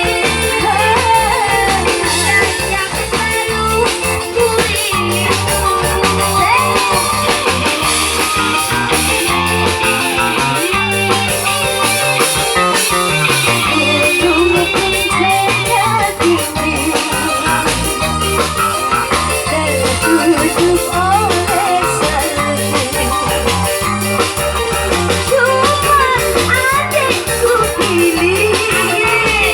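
Song with a singing voice over band accompaniment: guitar and a steady bass line keep going throughout.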